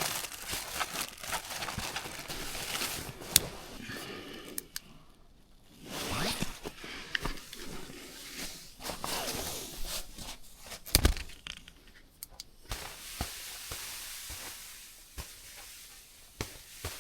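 Irregular rustling, crunching and knocking of someone handling firewood and kindling and moving about, with two sharp knocks, about three and eleven seconds in.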